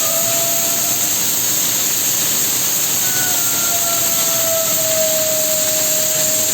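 Steady loud hiss and drone of industrial machinery, with faint tones that slowly slide downward in pitch near the middle.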